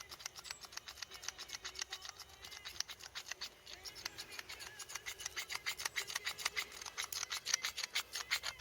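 Salt grinder being twisted over burger patties: fast, even grinding clicks, several a second, getting louder toward the end.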